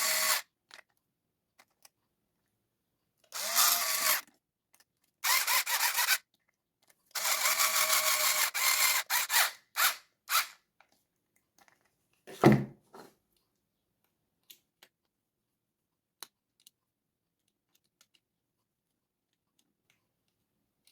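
Small power screwdriver driving screws in several short whirring bursts, a couple of seconds each, the motor pitch rising as it spins up. A few quick pulses follow, then a single knock about twelve and a half seconds in.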